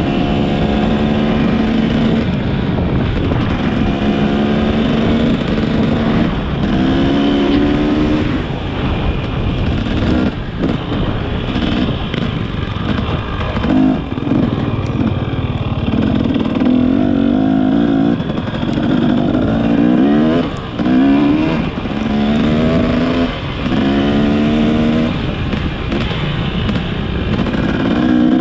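Motorcycle engine pulling hard through the gears, its pitch rising on each gear and dropping at every shift, many times over, with a steady rush of wind noise underneath.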